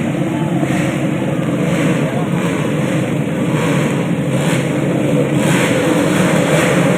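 Racing motorcycle engines running and revving, a steady dense rumble with pitch rising and falling.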